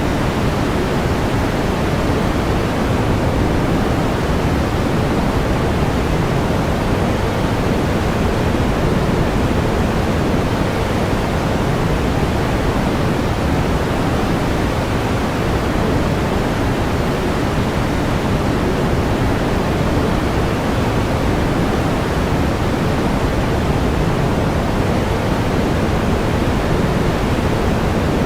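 Pink noise: a steady, even hiss, heavier in the lows and fading toward the highs, with no change.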